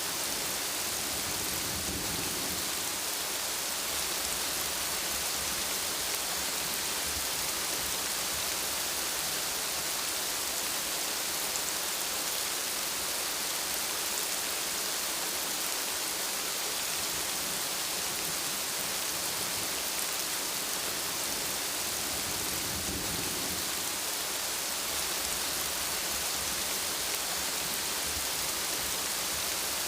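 Steady rain falling, an even hiss, with two brief low rumbles of thunder, about two seconds in and again about two-thirds of the way through.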